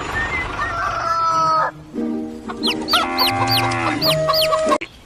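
A run of pitched animal calls with many overtones and quick high chirps over them, lasting about three seconds and cutting off suddenly near the end.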